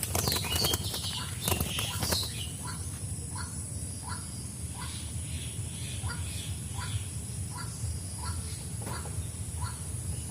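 Wings flapping and rustling against a bamboo trap for the first two seconds or so, as the caught dove struggles. After that, a bird's short falling call repeats about twice a second.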